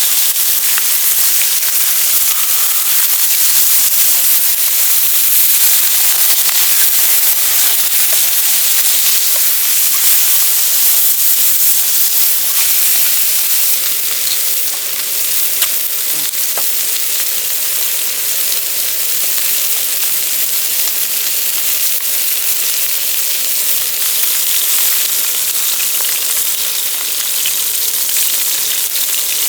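Food sizzling in a hot pan: a steady hiss with a few small pops here and there.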